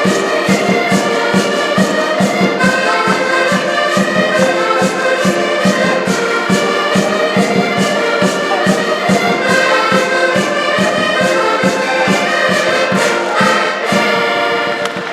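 Live band music with sustained melody notes over a steady, regular beat, played loudly and drawing to its close near the end.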